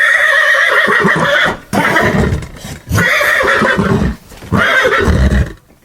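A horse whinnying, several loud calls one after another, the first the longest.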